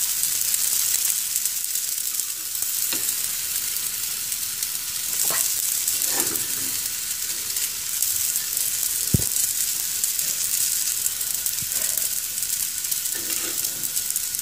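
Flour-coated vegetable slices sizzling in a little oil in a hot non-stick frying pan, a steady hiss. A single sharp click comes about nine seconds in.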